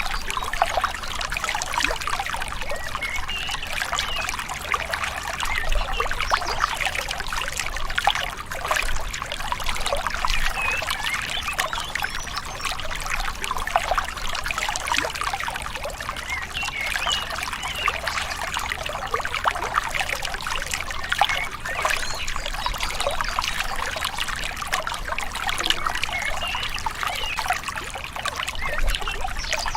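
A small river flowing gently, its water trickling steadily over stones with a constant splashing and gurgling.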